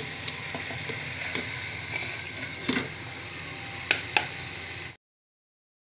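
Onion masala sizzling in hot oil in a pot as fried seekh kababs are tipped in from a metal plate, with a few sharp clinks. The sound cuts off abruptly near the end.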